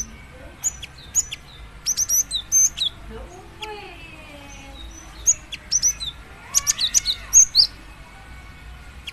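Female cinereous tit (gelatik batu) calling to a male: short, sharp, high chirps in quick clusters about a second in, around two to three seconds in, and again from about five to eight seconds in. Fainter gliding whistles from other birds sound between the clusters.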